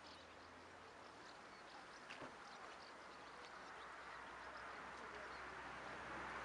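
Faint outdoor background noise with scattered short, high bird chirps and a light click about two seconds in, growing gradually louder towards the end.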